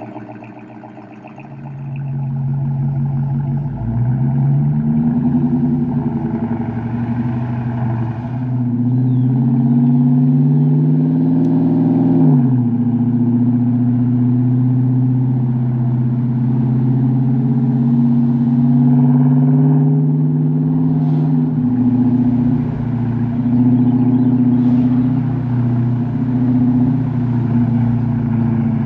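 Chrysler 300's Hemi V8 exhaust through Carven R mufflers with the resonator deleted: a deep exhaust note that climbs slowly in pitch, drops off sharply about twelve seconds in, holds steady, then drops again about twenty-two seconds in.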